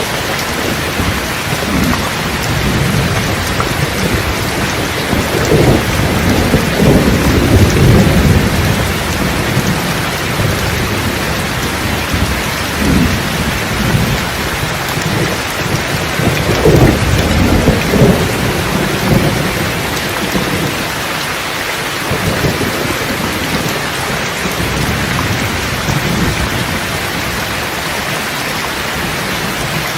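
Steady heavy rain falling, with thunder rumbling low beneath it; two stronger rolls of thunder swell up, one about five seconds in and another about sixteen seconds in.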